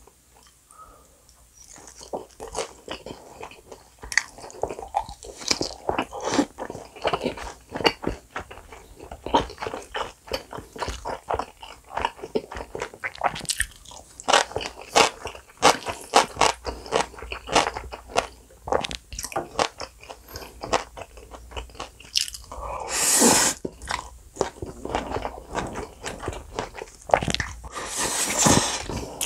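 Close-miked eating sounds: rapid, crisp crunching and chewing of a deep-fried dumpling, with two longer slurps near the end.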